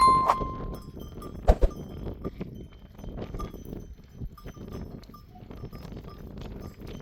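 Bells on grazing sheep and goats clinking as the flock moves: one bell rings out clearly at the start and fades within about a second, then many small bells tinkle on and off, with a single sharp knock about a second and a half in.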